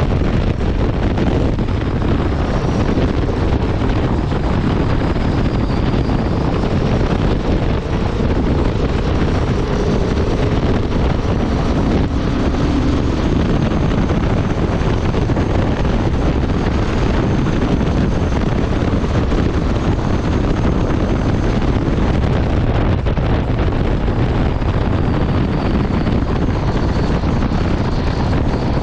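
Honda Transalp 750's 755 cc parallel-twin engine and exhaust running steadily at highway speed, mixed with heavy wind rushing over the microphone.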